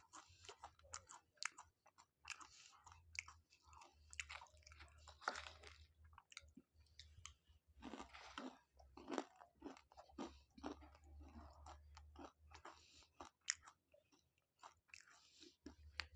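A person chewing food close to a clip-on microphone: faint, irregular wet chewing with small crunches and mouth clicks.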